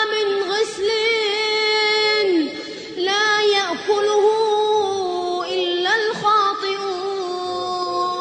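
A single high voice chanting Quran recitation in the melodic tajweed style, holding long drawn-out notes with sliding turns in pitch.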